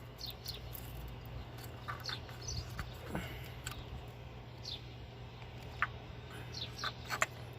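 Faint short chirps, some gliding down in pitch, and a few light clicks, scattered over a low steady hum.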